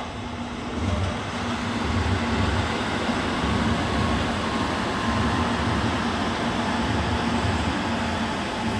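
N700A Shinkansen bullet train moving past on the rails. A low, pulsing rumble of wheels on track, with a faint steady hum and a rushing noise, swells about a second in and then holds steady.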